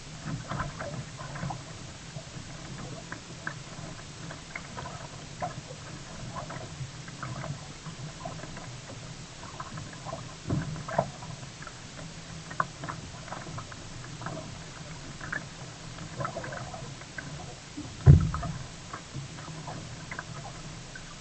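Kayak paddling on the sea: irregular paddle splashes and water dripping against a steady low rumble of water on the hull. A couple of soft knocks come around the middle, and one loud thump comes near the end.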